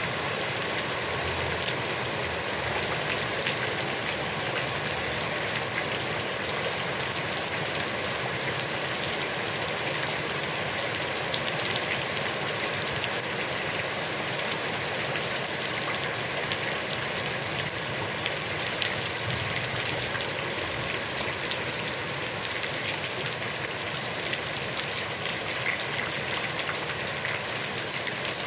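Heavy rain falling steadily onto a pond's surface, a dense even hiss with many small drop splashes.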